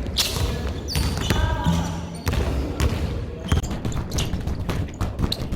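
Basketball being dribbled and bounced on a court: a run of sharp, irregularly spaced bounces.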